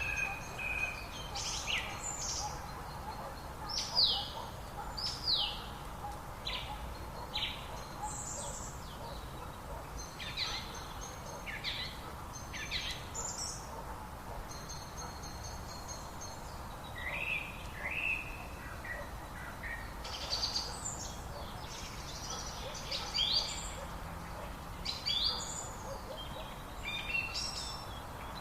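Several birds singing and calling in quick succession, short sweeping notes and trills overlapping one another, over a steady low background noise.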